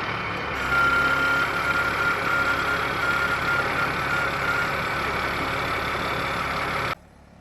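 Caterpillar 336E excavator's diesel engine running steadily while it works, with a thin high whine over it for a few seconds. The sound cuts off abruptly near the end.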